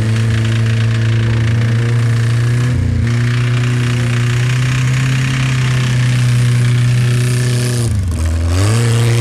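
Moskvich sedan's four-cylinder engine revved hard and held high as the car, stuck in snow, is pushed. The revs dip briefly about three seconds in, and drop and climb again near the end.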